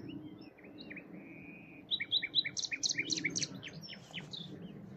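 Common nightingale singing: varied short notes, a long held whistle, then a loud run of rapidly repeated notes, over a steady low background rumble.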